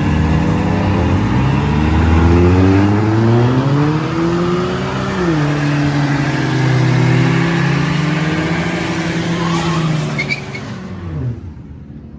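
Car engine revving: its pitch climbs for about four seconds, dips slightly and holds high for several seconds, then drops away and fades about eleven seconds in.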